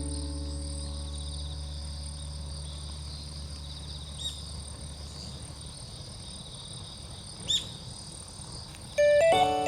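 Insects chirring steadily in a continuous high buzz. A low sustained musical chord fades out under it, and a few bright music notes come in near the end.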